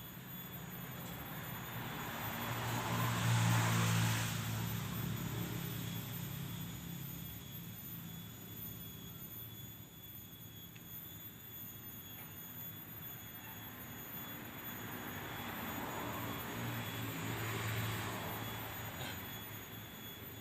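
Two motor vehicles passing by one after the other, each engine sound swelling and then fading. The first is the louder, peaking about four seconds in; the second passes near the end.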